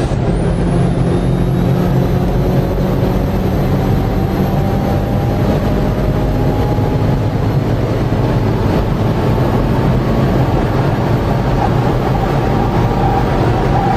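A vehicle engine running steadily under heavy road and wind noise.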